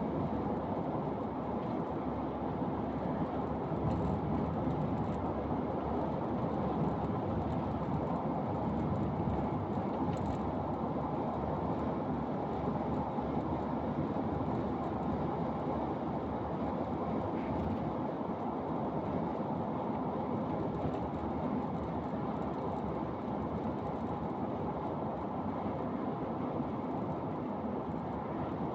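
Steady rumble of a moving vehicle: road and tyre noise with engine, running at an even pace throughout.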